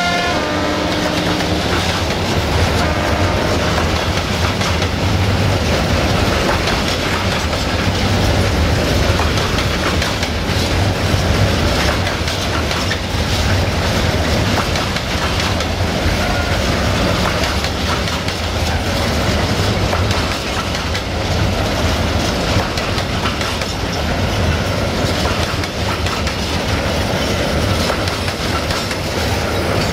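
Long freight train of covered sliding-wall wagons rolling past: a steady rolling rumble with the wheels running over the rail joints. The last moment of a locomotive horn blast cuts off at the very start.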